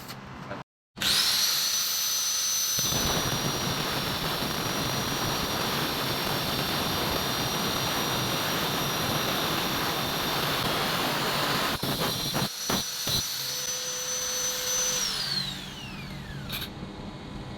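Blower fan built from a salvaged water-pump electric motor running at full speed, a steady high whine over a rush of air, with a few knocks around twelve seconds in. About fifteen seconds in it is switched off and winds down, its pitch falling.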